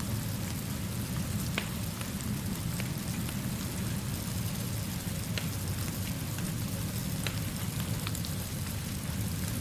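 Steady rain falling, with a low rumble under it and a few sharp crackles from a wood fire scattered through.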